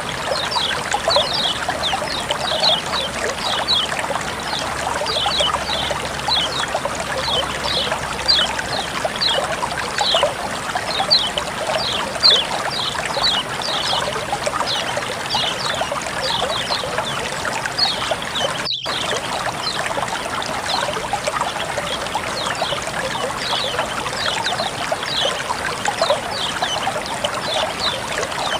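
Water running and trickling steadily, with small birds chirping over it in quick high notes that slide downward, two or three a second. The sound cuts out for an instant about two-thirds of the way through.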